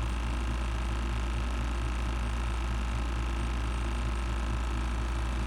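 Steady low hum with evenly spaced tones, unchanging, with no distinct events.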